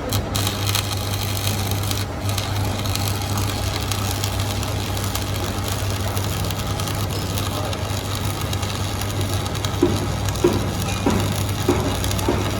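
Machinery running with a steady low hum and continuous mechanical noise, with a few short, sharp sounds in the last few seconds.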